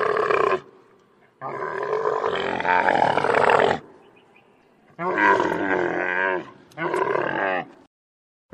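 Camel calling: four rough, drawn-out groaning calls. The second is the longest, about two and a half seconds, and two shorter calls come near the end.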